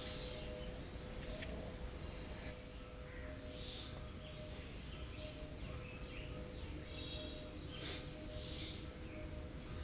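Outdoor background noise with a steady low hum and a few short, high chirps every few seconds.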